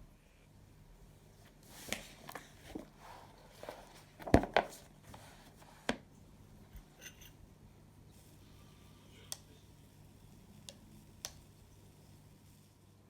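A run of light clicks, taps and knocks from small objects being handled in a small room, loudest a little past four seconds in, followed by a few isolated ticks.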